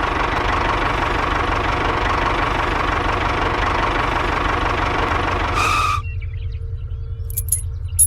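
Engine running steadily, a dense mechanical noise over a low pulsing rumble. The noise cuts off abruptly about six seconds in, leaving only the low rhythmic rumble.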